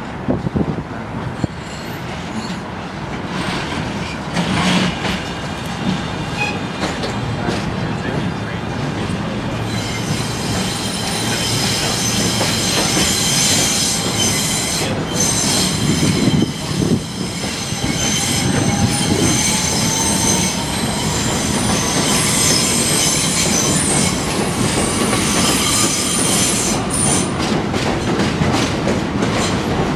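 New York City subway trains, an R160B and an R62A, running into the station over the rails, the wheels squealing and clacking over rail joints and growing louder. A faint rising whine enters about two-thirds of the way through.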